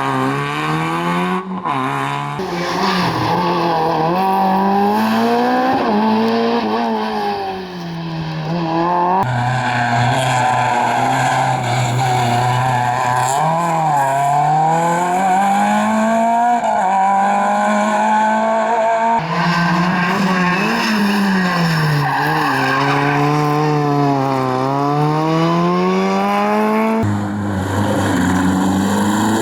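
Rally cars driven hard on a special stage, engines revving up and dropping back through gear changes, with tyres squealing. The sound changes abruptly several times, about every eight to ten seconds, as one car's run gives way to another's.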